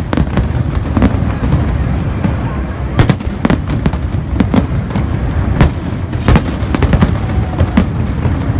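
Fireworks display: a dense, irregular run of bangs and cracks, several a second, over a continuous low rumble of further explosions.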